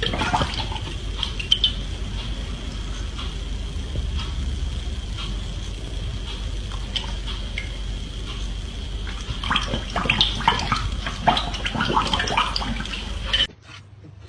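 Underwater water noise: a steady rushing wash with bubbling and scattered clicks, busiest around ten to twelve seconds in. It cuts off abruptly near the end.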